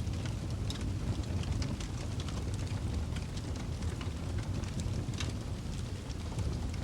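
Wood fire burning in a fireplace: a steady low rumble of flames with many small, sharp crackles and pops.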